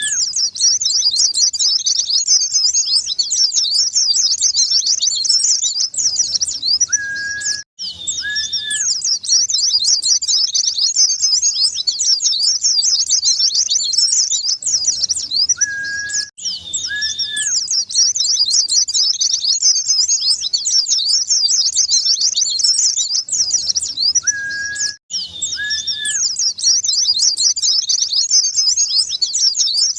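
White-eye (pleci) song: a fast, continuous high twittering of chirps. It repeats as a loop about every eight and a half seconds, each pass starting after a brief gap with a couple of lower whistled notes.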